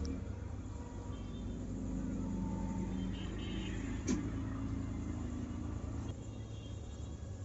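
A motor engine running with a steady low rumble, joined by a sharp click about four seconds in.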